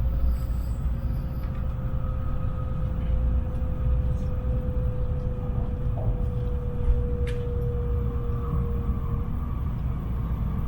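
Cabin running noise of a Tokaido Shinkansen train at speed: a steady low rumble with a faint, level tone that drifts slightly lower. A single sharp click comes about seven seconds in.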